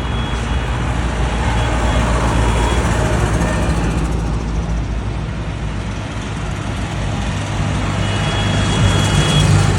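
Truck engines running with a steady low rumble that grows louder near the end as a truck comes closer.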